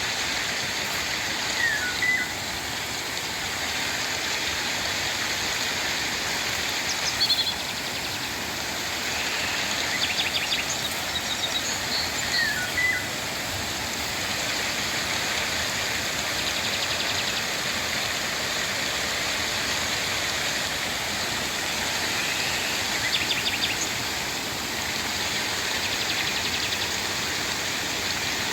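Steady rain falling, a constant hiss, with birds calling through it: short downward-sliding chirps about two seconds in and again near the middle, and brief trills scattered between.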